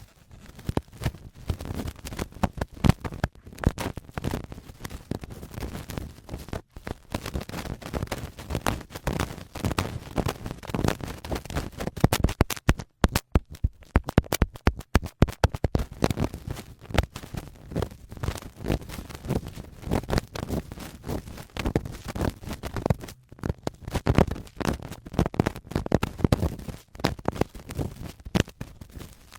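Adhesive cotton swab scraping and rubbing in an ASMR ear microphone, giving a dense run of crunchy, grinding scratches, broken by a few brief pauses near the middle.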